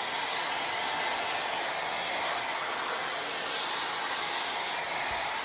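Shark IQ blow dryer running with its round-brush styling attachment: a steady, even rush of air.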